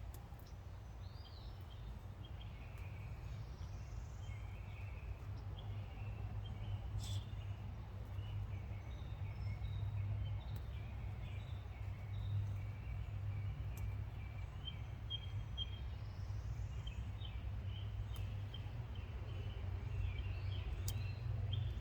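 Small birds chirping on and off over a steady low rumble, with a couple of sharp clicks.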